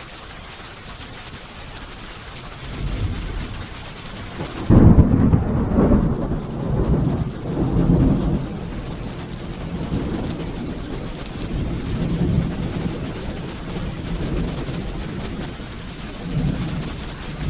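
Thunderstorm: steady rain hiss, then thunder that builds about three seconds in and breaks into a sharp clap just before five seconds. Long rolling rumbles follow, swelling and fading several times, with another surge near the end.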